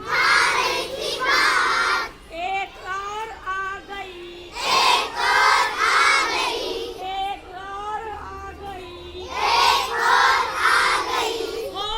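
A group of children singing loudly in chorus three times, in bursts of about two seconds, with a single voice singing a quieter line in between each: call-and-response in a Hindi children's counting song.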